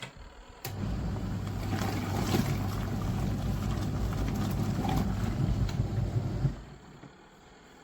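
Motor of a Wiltec 230 W portable twin-tub washing machine running with a steady hum, starting abruptly under a second in and cutting out near the end.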